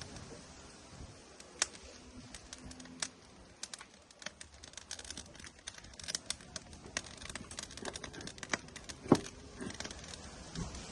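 Burning firewood in an outdoor grill crackling: irregular sharp pops and snaps, sparse at first and busier after about five seconds, with one louder pop late on.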